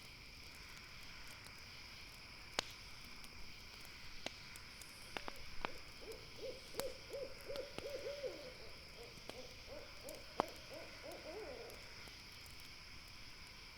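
An owl hooting a quick run of short, repeated notes for about six seconds, with a brief pause partway through. Sharp campfire crackles pop now and then, the loudest just before and during the hooting, over a steady high insect drone.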